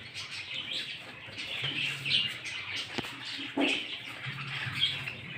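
Small birds chirping, short high chirps repeating every half second or so over a faint low hum.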